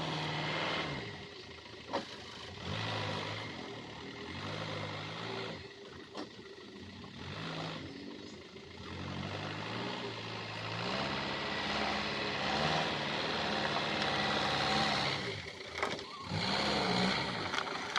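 Mitsubishi dump truck's diesel engine running, its pitch rising and falling as it is revved, then holding at a higher, steadier pitch from about eleven seconds in.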